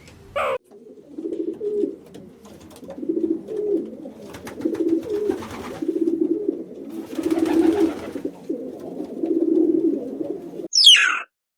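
A pigeon cooing repeatedly, a string of low phrases one after another. Near the end a short, loud, high bird call sweeps downward.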